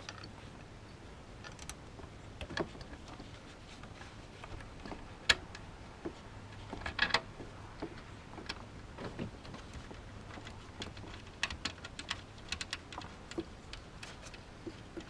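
Scattered light clicks and knocks of hand tools and parts being handled in an engine bay during reassembly, with one sharp click about five seconds in, a cluster of them around seven seconds, and a quick run of small clicks from about eleven to thirteen seconds.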